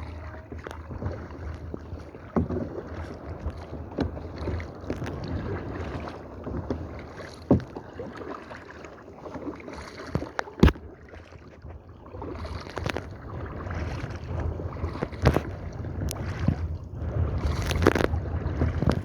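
Kayak paddling: paddle blades dipping and splashing in the water over a steady low rumble, with a few sharp knocks scattered through, the loudest about halfway.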